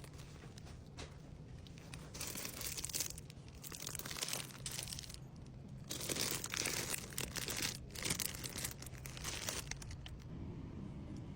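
Plastic packaging crinkling and rustling in irregular bursts as items are handled and packed.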